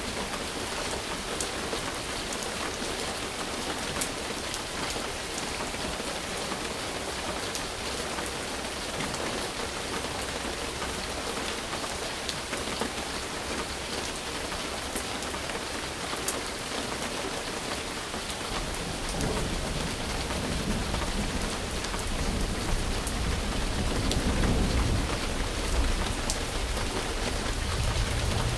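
Steady rain hiss with scattered drop ticks. About two-thirds of the way through, a low rumble of thunder comes in, swells and runs on to the end.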